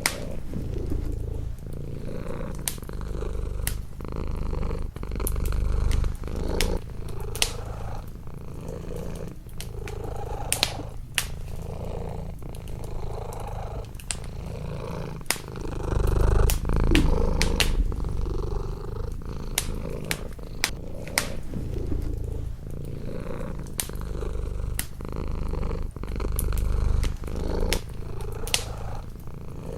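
A domestic cat purring close up, the low purr swelling and easing in cycles a couple of seconds long, over the frequent sharp crackles and pops of a wood fire in a fireplace.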